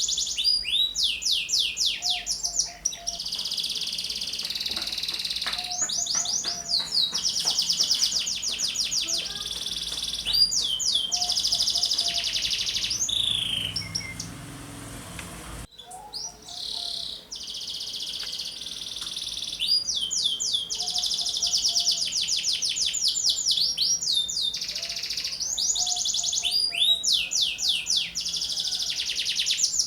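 Domestic canary singing a long, vigorous song of rapid trills and quickly repeated sweeping high notes, with a brief lull about halfway through.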